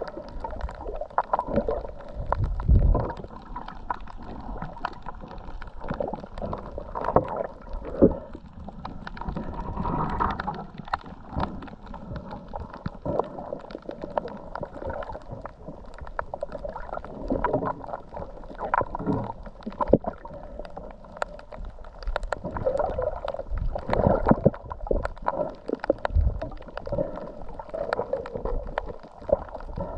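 Muffled underwater water noise: gurgling and sloshing with irregular knocks and low rumbles.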